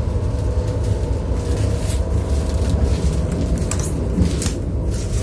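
Passenger train running on the rails, heard from inside the carriage vestibule: a steady low rumble with a few short clicks and rattles.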